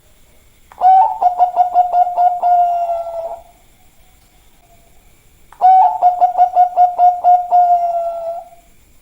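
Zebra dove (perkutut) of the Bangkok song strain cooing: two song phrases, each a rapid run of pulsed notes ending in a drawn-out held tone, with a quiet pause of about two seconds between them.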